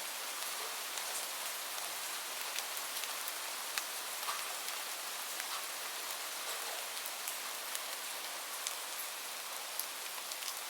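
Steady rain falling, an even hiss with scattered sharp drop ticks at irregular moments.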